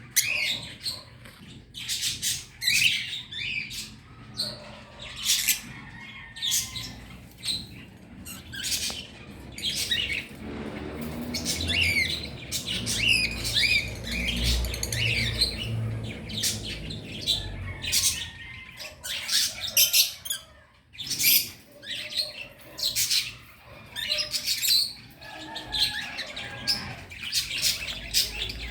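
A group of birds chirping and squawking together, many short high-pitched calls overlapping without a break, noisy enough to serve as a morning alarm. A low rumble sits under the calls in the middle of the stretch.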